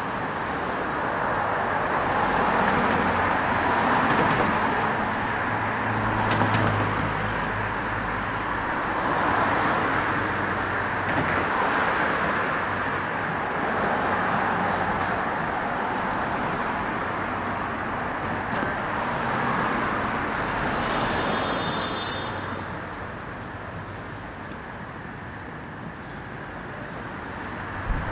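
Road traffic on a city street: cars passing one after another, each swelling and fading, quieter for a few seconds near the end.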